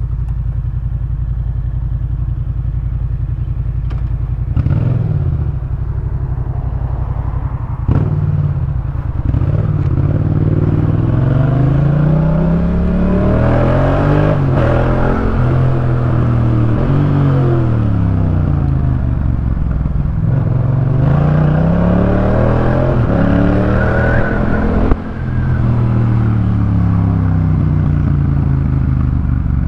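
Yamaha MT-07's parallel-twin engine breathing through a Jeskap K4 full aftermarket exhaust, running steadily at first. From about four seconds in, its pitch rises and falls again and again as the throttle is opened and closed, with a few sharp clicks along the way.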